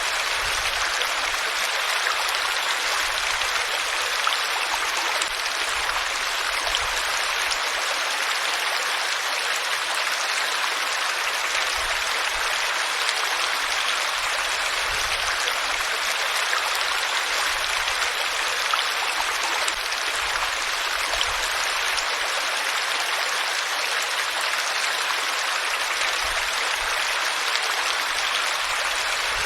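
Flowing water running steadily and evenly.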